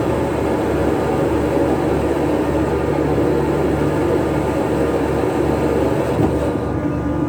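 Steady, loud mechanical drone of a shrimp trawler's diesel engine and deck machinery running during a deck maneuver.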